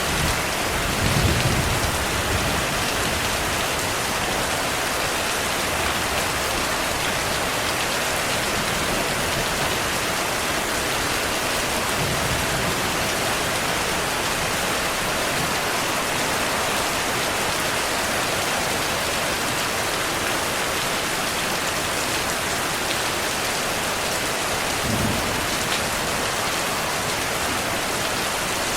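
Heavy rain falling steadily, with a low thunder rumble about a second in and another near the end.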